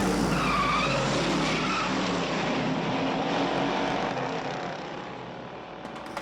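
Car chase sound effects: car engines running hard and tyres squealing, the squeal wavering up and down in pitch in the first second or so. The sound fades somewhat near the end.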